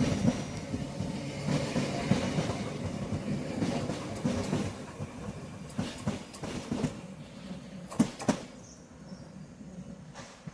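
Class 465 Networker electric multiple unit running along the track, its noise fading as it draws away. Sharp clacks sound through it, the two loudest about eight seconds in.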